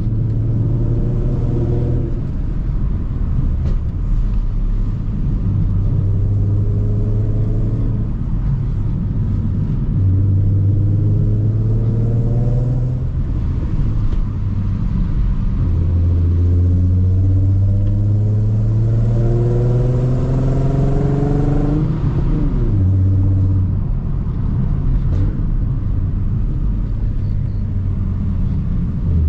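Ford Mustang V6 with a Roush exhaust pulling through the gears: the engine note climbs in pitch several times, each climb cut off by a drop in revs as the six-speed manual is shifted or the throttle lifted. The longest and loudest pull comes in the middle, followed by a quick fall in revs.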